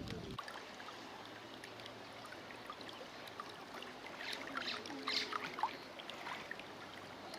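Faint flowing floodwater with a few short splashes about four to six seconds in.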